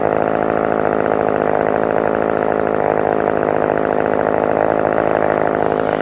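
Yellow McCulloch two-stroke chainsaw running steadily at high revs, its chain cutting through old, dry wood.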